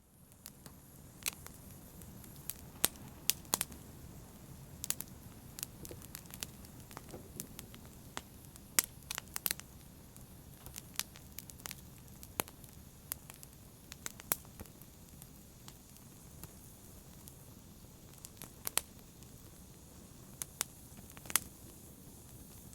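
Fire burning in a fireplace, crackling: a low steady rush with sharp, irregular pops every second or so, the loudest about nine seconds in.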